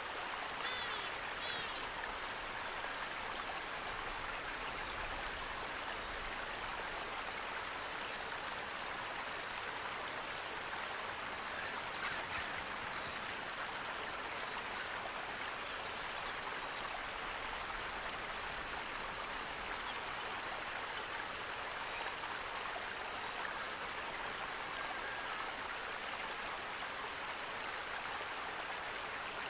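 Running water of a stream, splashing and rushing steadily. A brief bird call comes about a second in, and a single click about twelve seconds in.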